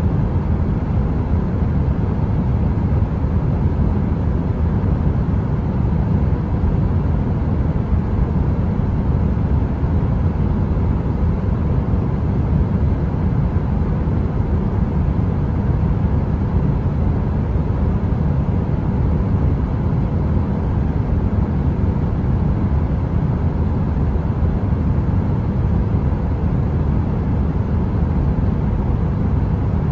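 Heater-style white noise: a steady, deep rushing noise with most of its weight in the bass and a faint hum at a couple of fixed pitches.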